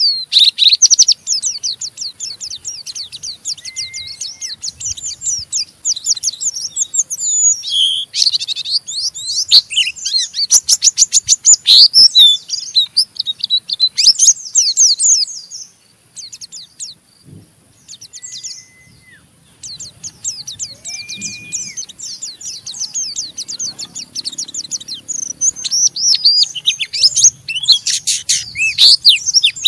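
White-eye (pleci) twittering in a rapid, scratchy stream of high chirps (the 'ngeriwik' call), with a few short clear whistles. The twitter breaks off for a few seconds past the middle, then starts again.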